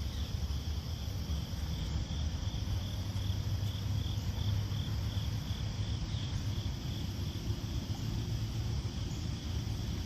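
Insect chirping, about three short high chirps a second, fading out near the end, over a steady low rumble.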